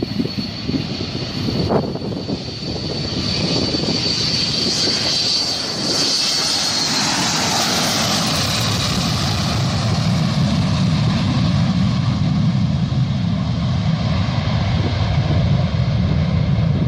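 Boeing 727 jet engines at takeoff power. A high whine falls in pitch about six to eight seconds in as the jet passes, then gives way to a deep, steady rumble.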